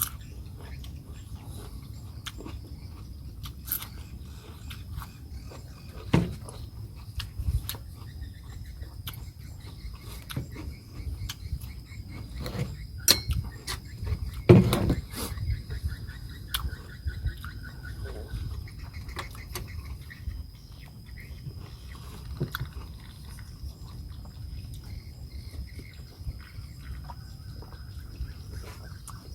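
Quiet eating at the table: scattered light clicks and taps, with one louder knock about halfway through, over a steady low hum and a faint, steady high-pitched tone.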